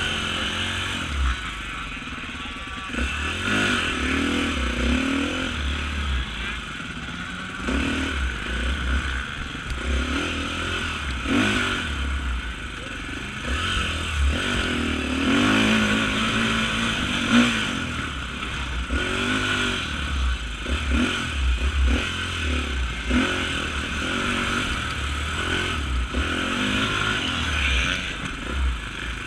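Off-road motorcycle engine revving up and down over and over, its pitch rising and falling with the throttle, with scattered knocks and clatter.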